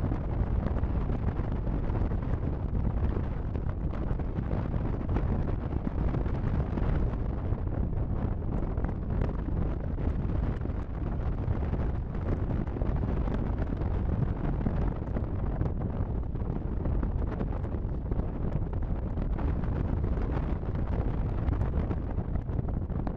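Wind buffeting the microphone: a steady, loud, fluttering rumble.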